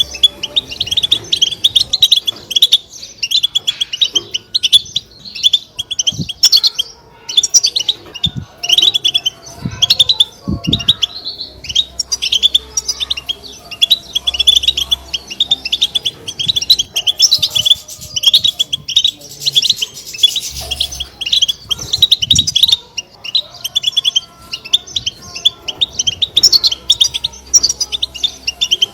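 European goldfinch twittering: a rapid, unbroken chatter of short, high chirps.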